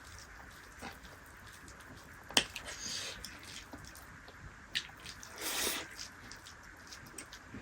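Close-up eating sounds: soft, scattered mouth clicks and chewing, with a sharp tap about two and a half seconds in and a short hissing, slurp-like burst around five and a half seconds.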